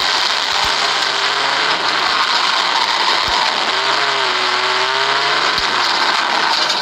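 The Vauxhall Corsa 1200 Junior's 1.2-litre engine running under way, heard from inside the cabin along with loud road and tyre noise. The engine note rises and falls gently, with a few sharp knocks from the car over bumps.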